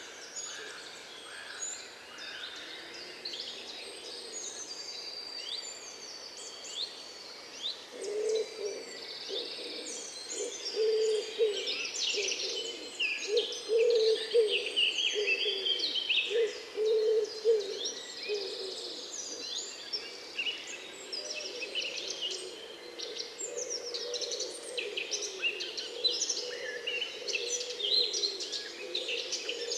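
Several wild birds chirping and singing at once, many short high calls and trills overlapping. A lower bird call repeats in a run of pulses from about eight seconds in to about eighteen seconds in.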